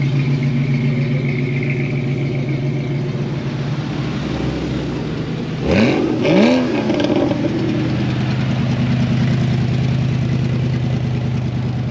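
A car engine idling steadily, then revved twice in quick blips about six seconds in, the pitch rising sharply and dropping back each time before settling to idle again.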